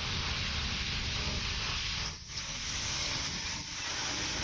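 Floodwater rushing in a steady, continuous wash of noise with a low rumble underneath, dipping briefly about two seconds in.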